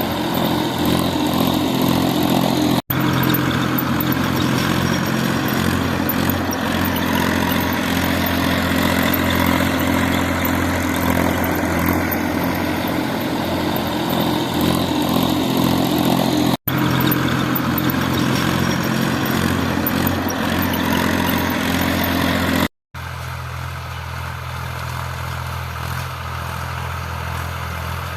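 Tractor engine running steadily at a constant pace. It drops out for an instant about 3 s and 17 s in, and after a short gap about 23 s in it comes back quieter.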